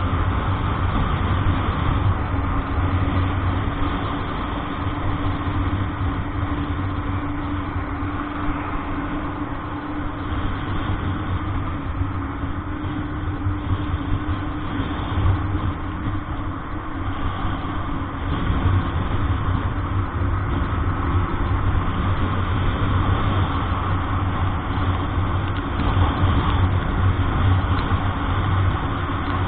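A motor vehicle's engine running with a steady low drone and a constant haze of road noise, holding even throughout.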